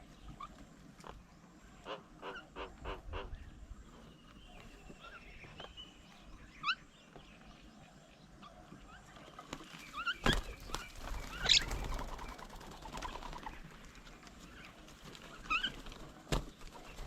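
Several birds calling: short chirps and rising whistled notes, with a quick run of sharp clicks early on and a louder flurry of calls about ten seconds in.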